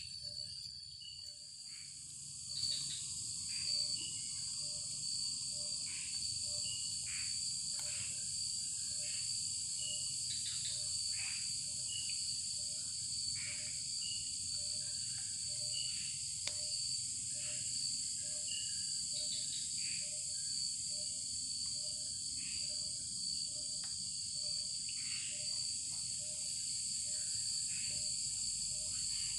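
Night-time forest insect chorus: crickets and other insects keep up a steady high-pitched drone and a shrill continuous trill. Over it a low call repeats about three times every two seconds, with scattered short chirps.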